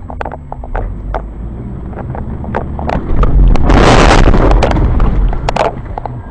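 Car crash heard on a dashcam: a run of sharp knocks over a low engine hum, then, about three seconds in, a loud crashing noise lasting a little over two seconds.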